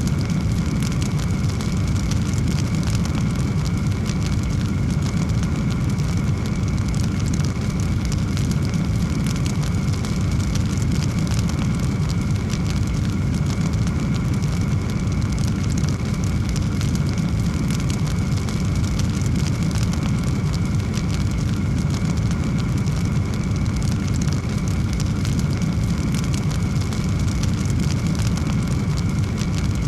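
Fire burning with a steady low roar and fine, continuous crackling.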